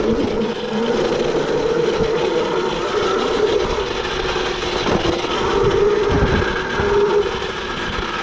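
Yozma IN10 electric dirt bike riding along a dirt trail: a steady motor whine that wavers with speed over a rushing noise, with a few low thumps about six seconds in.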